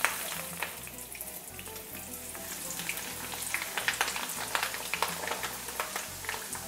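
Breaded chicken breast cutlets, coated in almond flour and cheese, frying in shallow hot oil in a skillet: a steady sizzle with many quick crackles and pops.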